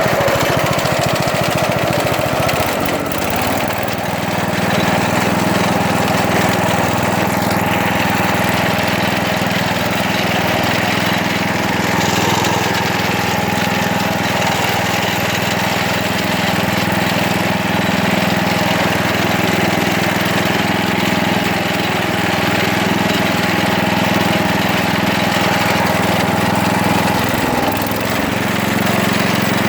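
16 hp Briggs & Stratton engine of a 1970s Wards (Gilson) garden tractor running steadily. Its note settles after the first few seconds and dips briefly near the end before picking back up.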